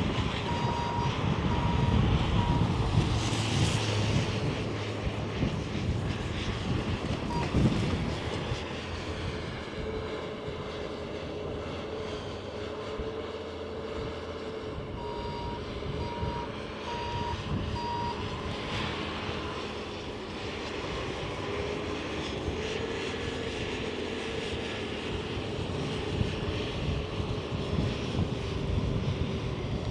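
Road traffic rumbling past at first, then the steady engine tone of an airplane passing overhead.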